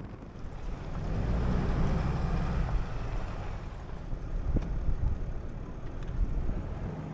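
A vehicle driving, with road noise and wind on the microphone; the low rumble swells about a second in and eases off a couple of seconds later.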